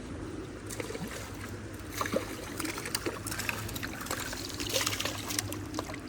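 Creek water trickling and splashing, with scattered light clicks and knocks.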